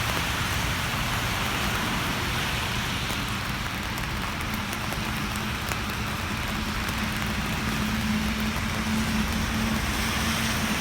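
Steady rain hiss with a low vehicle engine hum that grows louder over the last few seconds.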